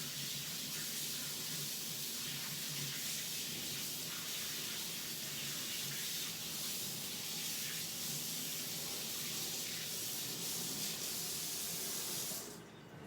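Handheld torch flame burning with a steady hiss over wet poured acrylic paint, used to pop bubbles and bring up cells; it stops abruptly near the end.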